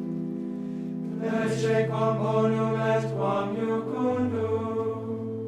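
Latin liturgical chant, slow and sustained, with long held notes that step to new pitches a few times.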